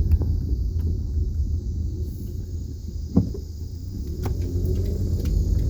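Low, steady road rumble of a car driving slowly, heard from inside the cabin, with a few light clicks and one short knock about three seconds in.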